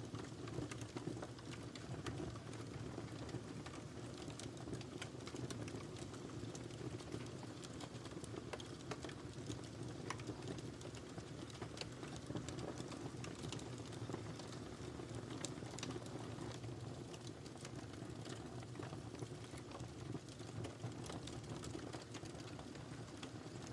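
Wood fire burning in a fireplace: a steady low rumble of flames with many small, sharp crackles and pops from the firewood scattered throughout.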